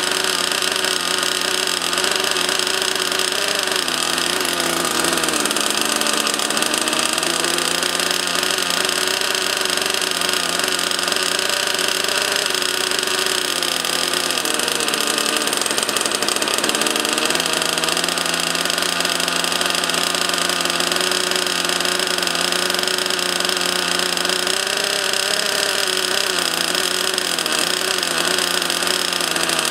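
RC model jet's small turbine engine running steadily with a high whine. Its lower tones dip in pitch and come back up about five seconds in and again around the middle, as the throttle eases off and opens again.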